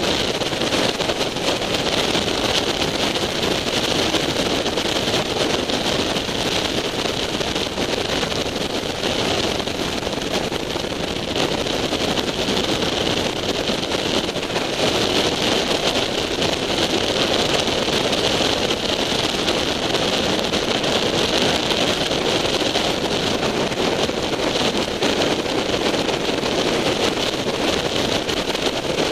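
Motorcycle at road speed heard from an onboard camera: steady wind rush over the microphone, with engine and road noise underneath.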